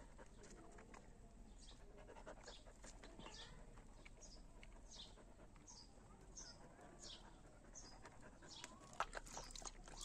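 Faint bird chirping: short, high chirps that fall in pitch, repeated about every half second. A few sharp clicks come near the end.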